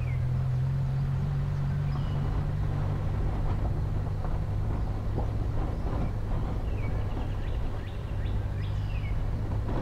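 A vehicle's engine running steadily at low revs as it drives along a gravel dirt track, its note dropping slightly about two seconds in. Small birds chirp now and then over the engine.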